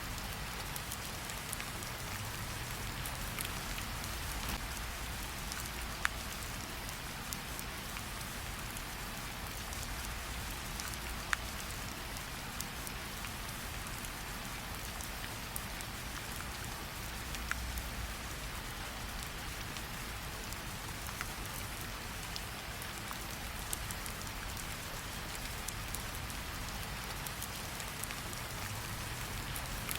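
Steady rain falling, an even hiss, with a soft low rumble underneath and a few sharp crackles from a campfire standing out, about three of them.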